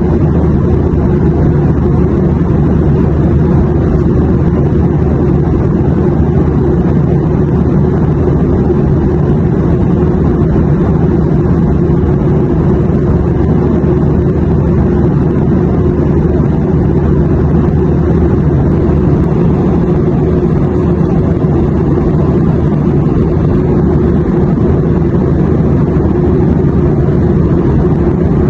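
Airplane cabin noise: a loud, even drone of engines and rushing air with a deep rumble, holding steady without change.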